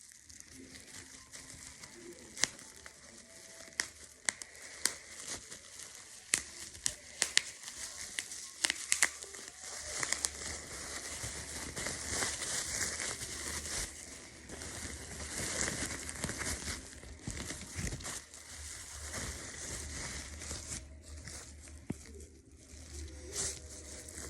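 Crinkling and crumpling, with many sharp crackles over the first half and denser, steadier rustling from about ten seconds in.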